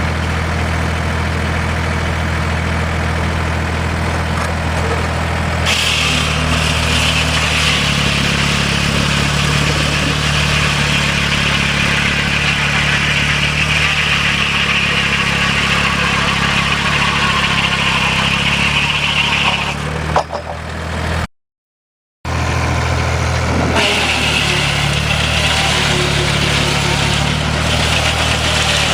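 Sawmill's power engine running steadily; about six seconds in a loud rasping hiss of the sawmill blade cutting timber joins it and the engine note drops under the load. The cutting stops after about twenty seconds, breaks off briefly, and starts again near the end.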